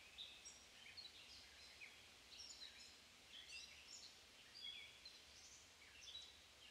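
Faint birdsong outdoors: many short chirps and whistled notes, scattered and overlapping throughout, over a quiet background hiss.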